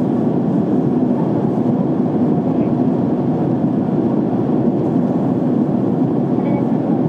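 Steady airliner cabin noise in flight, heard inside the cabin: an even, low rush of jet engines and airflow that does not change.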